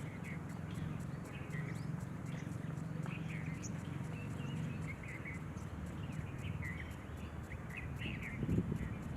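Small birds giving short, scattered chirps over a steady low background rumble, with a brief louder low thud near the end.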